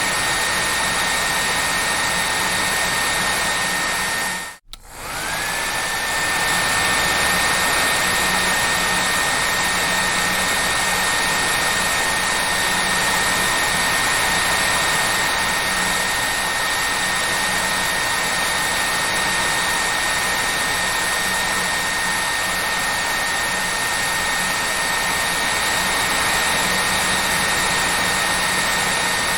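Hair dryer running steadily: a rush of air with a high motor whine. About four and a half seconds in it cuts out for a moment, then comes back, its whine rising back up to pitch.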